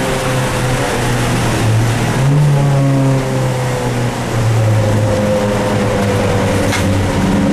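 Dodge Neon race car's four-cylinder engine heard from inside the cabin, its note stepping up and down as the car slows on a soaked track, over a steady hiss of rain and tyre spray. A brief click comes near the end.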